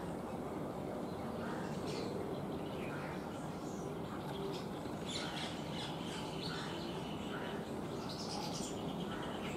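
Birds chirping: many short, high calls, busiest about halfway through and again near the end, over a steady outdoor background hiss.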